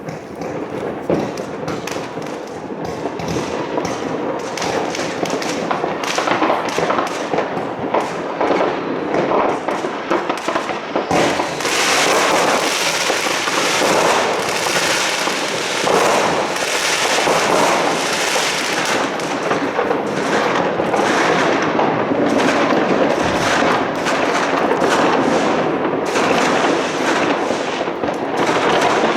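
New Year fireworks going off: a dense, continuous barrage of overlapping bangs, cracks and crackling that grows busier and louder about eleven seconds in.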